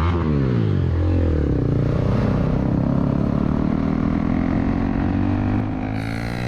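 KTM Duke 390 single-cylinder engine running at speed. Its pitch falls over the first two seconds as the bike slows, then holds fairly steady and climbs slowly as it pulls again, over rushing wind noise.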